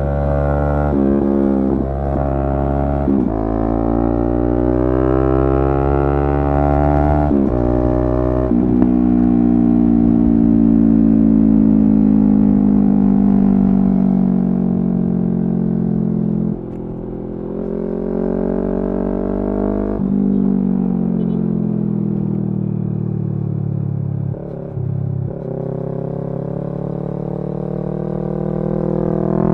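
Yamaha R3's 321 cc parallel-twin engine under way: it revs up through several quick gear changes in the first nine seconds, then falls slowly in pitch for several seconds as the bike slows, and climbs again twice, the last time near the end.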